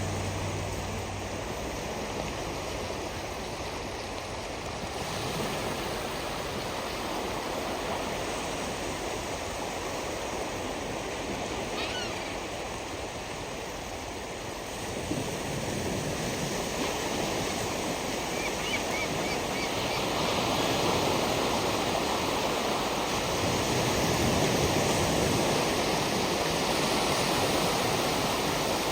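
Surf washing onto the shore in a steady wash that grows louder after about two-thirds of the way through. A couple of faint gull calls come through the surf near the middle.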